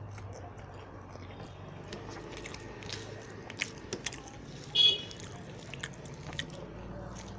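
Close-up eating sounds: chewing and wet mouth clicks of a person eating rice and curry by hand. One louder, sharp ringing sound a little under five seconds in, over a faint steady low hum.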